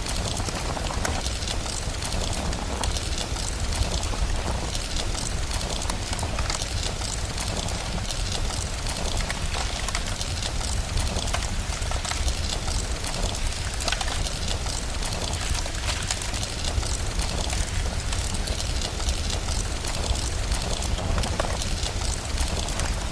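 Steady rain noise mixed with a crackling fire, many small pops over a constant low rumble.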